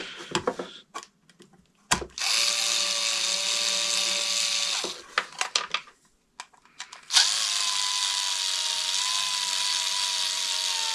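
Low-power cordless electric screwdriver driving screws, running a little slow: a motor whine of about two and a half seconds starting about two seconds in, handling clicks, then a second run starting about seven seconds in.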